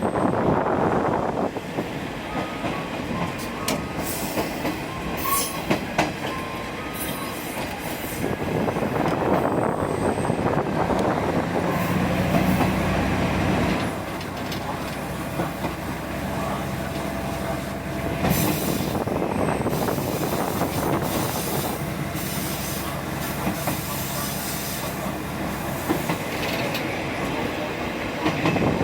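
Diesel railcar train (ex-JNR KiHa 30/37/38 series) running along the line, heard from on board: a steady rumble of engine and wheels with sharp clicks as the wheels cross rail joints. The wheels squeal thinly at times, and a low engine hum swells for a couple of seconds around the middle.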